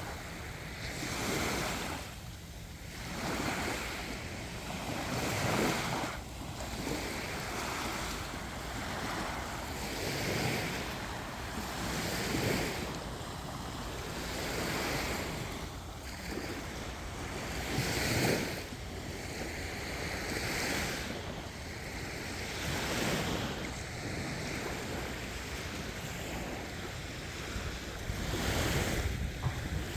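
Sea waves breaking and washing on a beach, swelling and easing every few seconds, with wind buffeting the microphone.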